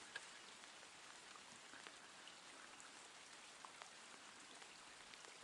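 Light rain falling: a faint, even hiss with scattered ticks of single drops.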